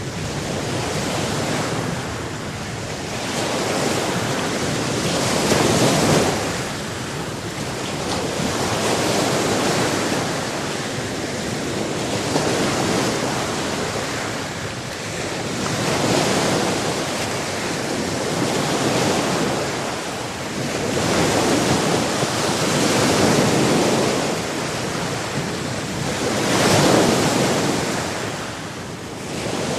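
Sea waves washing onto the shore: a steady surf that swells up and falls back every few seconds.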